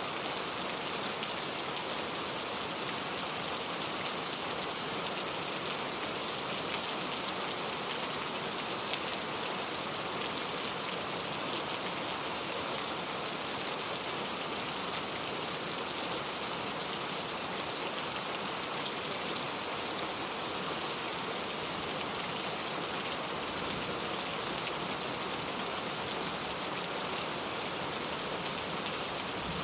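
Steady rain falling, a continuous hiss of drops with fine pattering and no change in intensity.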